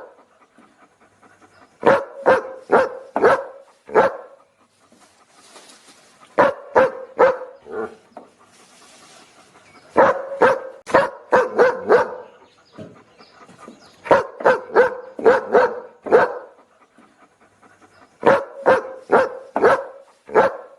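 A dog barking in quick runs of about five barks each, every run lasting around two seconds and coming back about every four seconds. A soft breathy hiss fills some of the gaps.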